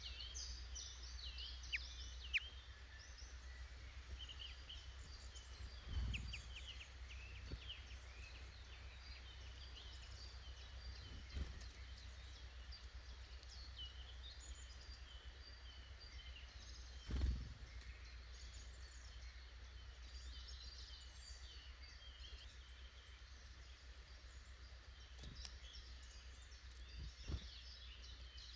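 Small woodland birds chirping and calling, many short high calls overlapping throughout, over a steady low rumble. A few dull thumps stand out, the loudest about two-thirds of the way through.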